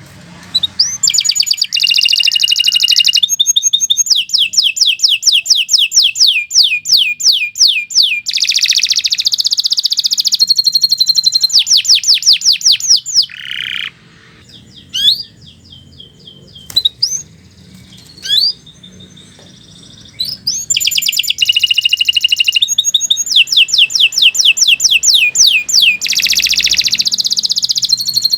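Domestic canary singing long, rapid trills of repeated sweeping notes, breaking off about halfway for some six seconds with only a few short chirps, then singing again.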